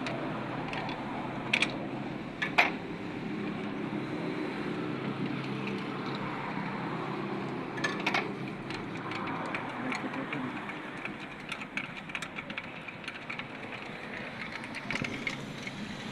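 Steady mechanical hum with scattered sharp metallic clicks and taps; the loudest click comes about two and a half seconds in.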